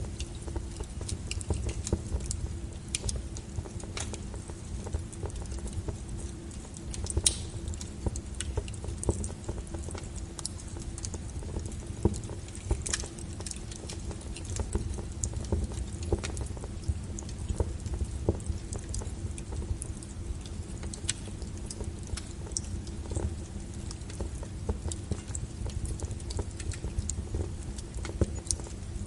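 Wood fire crackling: irregular sharp snaps and pops over a steady low rumble of burning logs, with a few louder pops about seven and twelve seconds in.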